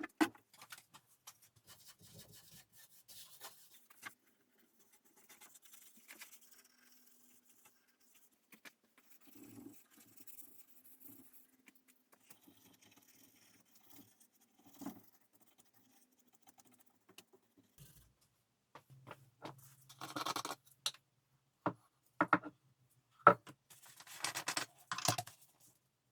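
Faint, scattered scratching and small taps of hand work on a piece of furniture. A few sharper clicks and louder scraping come near the end.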